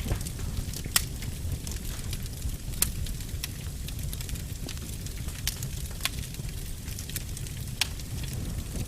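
Fire burning in a fireplace: a steady low rumble with irregular sharp pops and crackles, the loudest about a second in and just before three seconds.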